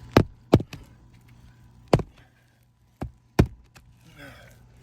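Five sharp taps as asphalt shingle tabs are lifted by hand and let fall back onto the roof; the tabs are unseated and not bonded down.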